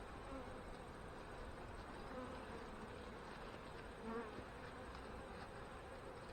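Honey bees buzzing around an open hive, a steady hum of many bees, with one louder buzz about four seconds in.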